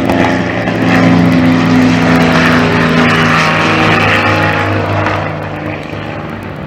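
Propeller airplane engine running loud as the plane flies close past, with a steady engine drone and a rushing noise that swells in the middle and fades after about five seconds.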